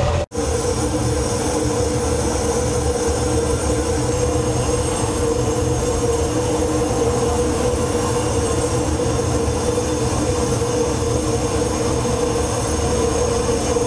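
Train rolling along the track: a steady rumble with a sustained whine held over it, cutting out for a moment just after it begins.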